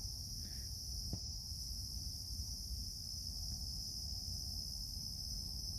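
A steady, high-pitched chorus of night insects such as crickets, with one faint click about a second in.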